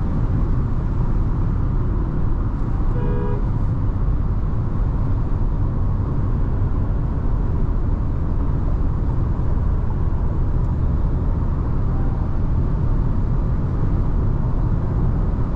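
Steady low road and wind noise inside the cabin of a Nissan Tekton cruising on the highway into a strong headwind. A brief horn toot comes about three seconds in.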